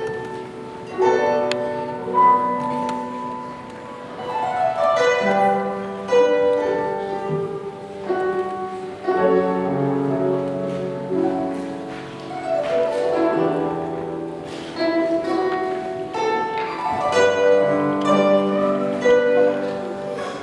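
Guzheng playing solo: plucked notes ringing and fading, broken by sweeping glissandi across the strings every few seconds.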